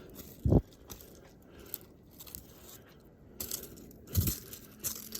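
Footsteps crunching through deep snow, with two heavier low thuds, about half a second in and about four seconds in.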